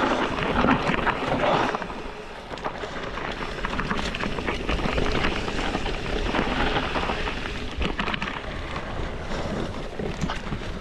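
Wind buffeting the microphone, with a run of sharp clicks and rattles from riding over a rough singletrack trail.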